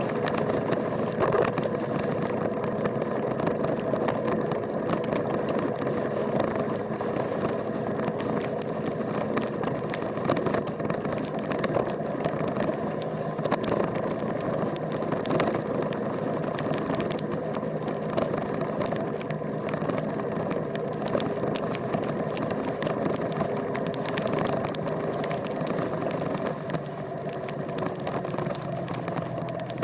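A vehicle engine running steadily, with many scattered sharp clicks and rattles over it.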